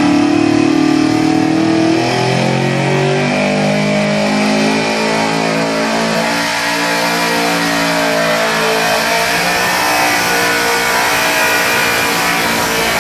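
Pickup truck engine running at high revs under load on a truck pull, its pitch dropping in steps over the first few seconds and then holding steady.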